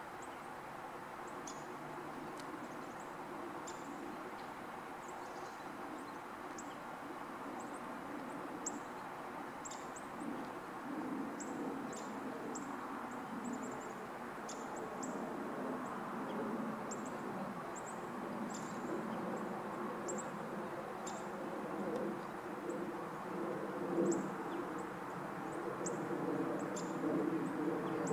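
Many short, high bird chips scattered irregularly over a steady outdoor background hiss and rumble that grows slightly louder toward the end.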